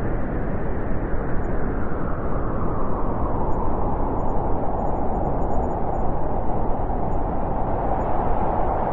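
Wind blowing steadily, a low rushing noise that slowly ebbs and swells.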